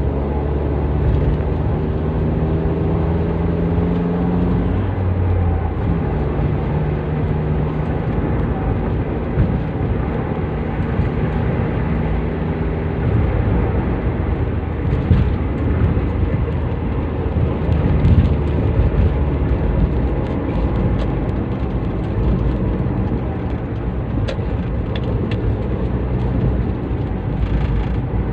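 Toyota Avanza with a custom exhaust driving, its engine and exhaust note steady at first, then stepping in pitch about five seconds in, followed by a low rumble.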